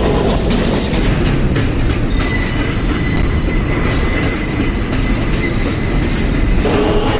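New York City subway L train running between stations, heard from inside the car: a loud, steady rumble of wheels on the track, with a faint high wheel squeal from about two seconds in.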